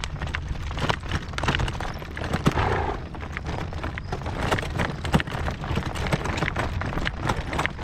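Hoofbeats of a driven horse clip-clopping along a dirt road, in an uneven run of sharp knocks, over a steady low rumble of wind on the microphone.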